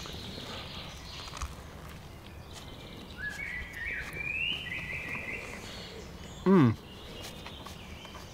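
Quiet woodland background with a bird singing a short warbling phrase a few seconds in. Near the end comes one brief, louder pitched sound that falls steeply in pitch.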